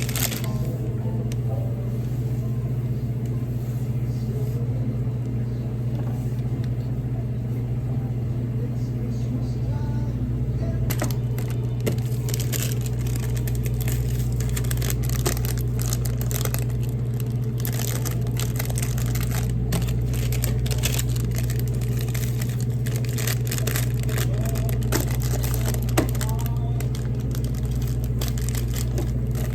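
A steady low machine hum, with scattered light clicks and taps from about eleven seconds in.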